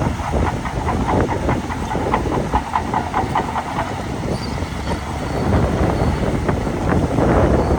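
Crawler bulldozer working: its diesel engine runs under a rapid clatter of clicks from the steel track chains. In the first half the clatter carries a squeak.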